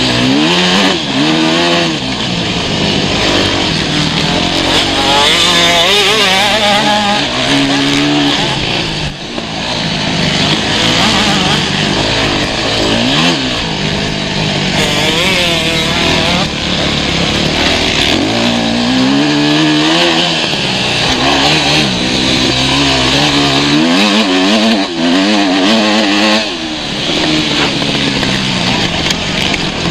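Motocross motorcycle engines running hard, the pitch rising and falling over and over as they rev up and shift through the gears.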